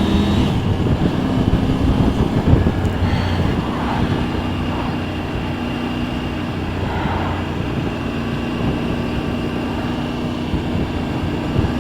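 Motorcycle engine running at a steady cruise under a haze of wind and road noise, its note holding level; it eases off slightly about four seconds in.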